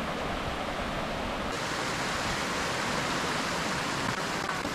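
Steady rush of flowing water, its hiss turning brighter about a second and a half in.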